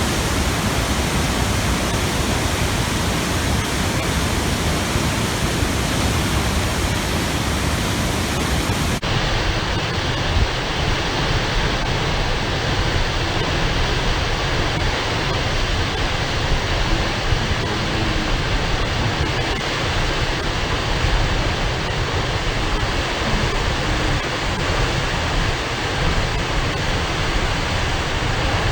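Waterfall plunging about 30 metres into a pool: a loud, steady rush of falling water. About a third of the way in the sound changes abruptly and loses its highest hiss, then carries on unchanged.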